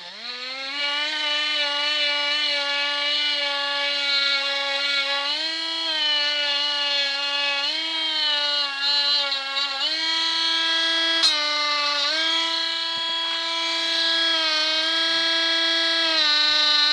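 Parkside cordless multi-grinder (rotary tool) spinning up at the start, then running with a steady high whine while buffing a silver piece with a polishing disc. Its pitch steps up and back down slightly a few times, and there is a single click about eleven seconds in.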